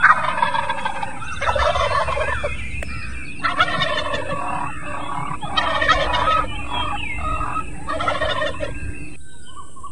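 Domestic turkey toms gobbling: a run of rattling gobbles, one after another, that stops shortly before the end.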